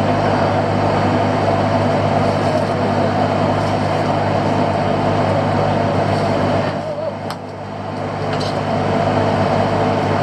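Fishing boat's engine running steadily, a constant hum with a brief dip in level about seven seconds in.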